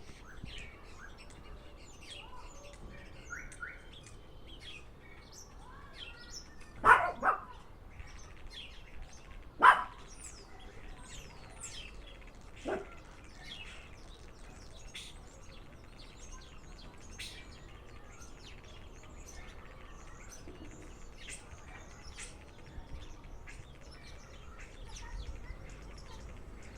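A songbird giving a long run of quick chirps and short whistles. About 7 s in there are two much louder sharp calls close together, another about 10 s in and a weaker one about 13 s in.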